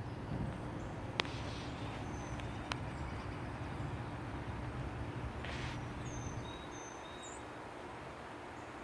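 Outdoor ambience: a low steady rumble that fades about six and a half seconds in, two sharp clicks early on the way, and a few short high bird chirps in the second half.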